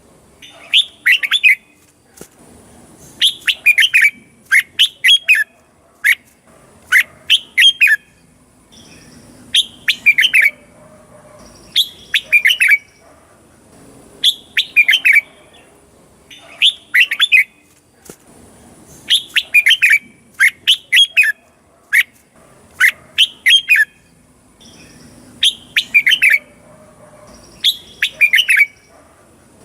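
Red-whiskered bulbul singing: short, bright whistled phrases of a few quick notes each, repeated about every two seconds.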